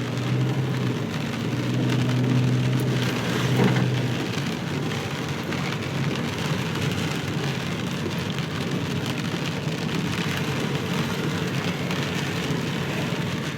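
Rain falling on a moving car, heard from inside the cabin, with a steady low hum during the first four seconds or so.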